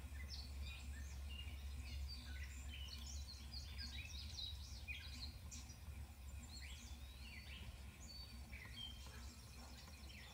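Birds chirping and singing, many short calls one after another, over a steady low hum.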